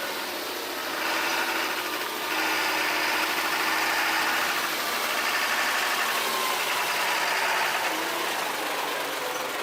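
Heavy Mercedes-Benz Actros tractor-trailer's diesel engine running steadily as the loaded log truck drives along a dirt road, with continuous road and tyre noise.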